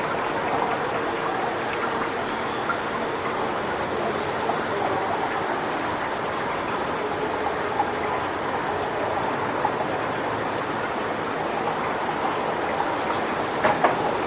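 Strong wind blowing through coconut palm fronds: a steady rushing rustle, with a few small clicks near the end.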